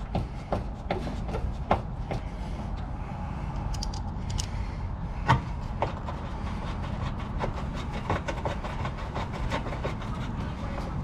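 Irregular clicks and taps of hand work on door lock hardware, quick at first and sparser later, with one louder knock about five seconds in, over a steady low rumble.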